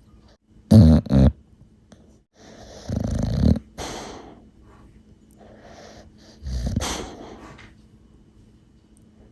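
Boxer dog snoring: a loud double snort about a second in, then slow snoring breaths every few seconds.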